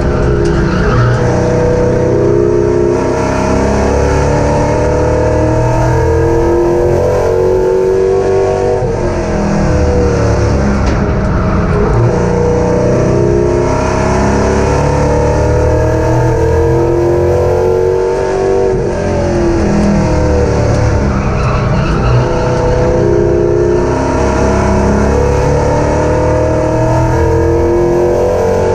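Super Stock race car's V8 engine at racing speed on a paved oval. It climbs in pitch as it accelerates, then drops back as it lifts for the turns, about every ten seconds.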